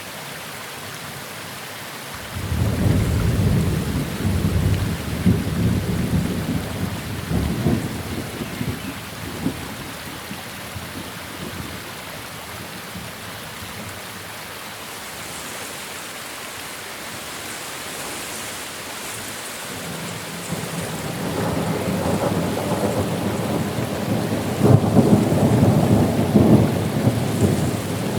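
Steady rain with two rolls of thunder: one breaks suddenly about two seconds in and rumbles away over several seconds, the other builds from about twenty seconds in and is loudest near the end.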